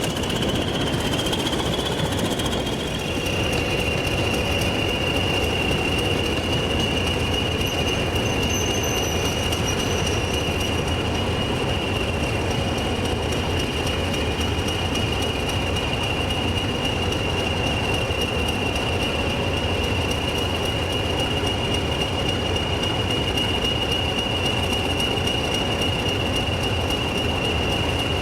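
A train moving along the rails with a steady high-pitched wheel squeal over a continuous rumble.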